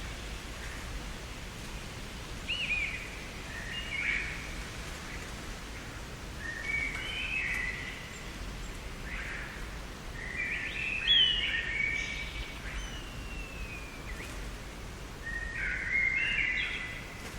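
Garden songbirds singing in short, separate warbled phrases, the loudest a burst of notes about eleven seconds in, over a steady low background hiss.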